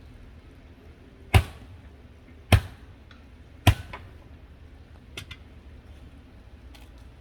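Three sharp knocks, about a second apart, followed by a few faint clicks.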